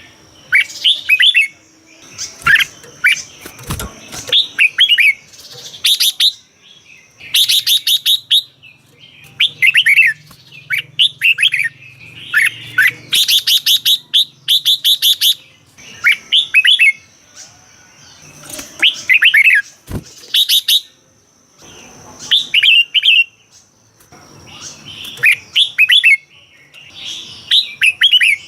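Red-whiskered bulbul singing: short, bubbly phrases of quick gliding whistled notes, repeated every second or two with brief pauses between them.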